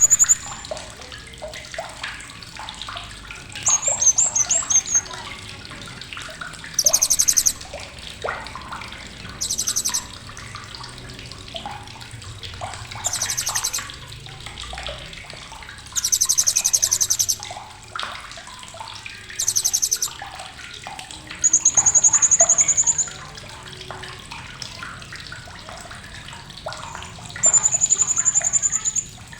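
A srindit hanging parrot giving sharp, very high, shrill trilling calls, each about a second long and repeated every few seconds. In the second half the calls change to two longer, steady high whistles.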